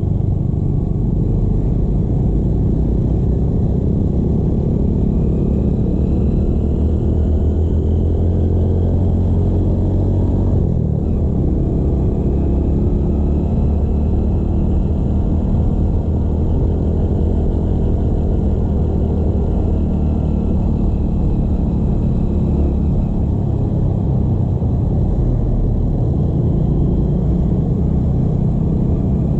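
Motorcycle engine running while riding along, under a heavy low wind rumble on the microphone. The engine's pitch drifts gently up and down, with a brief dip about eleven seconds in.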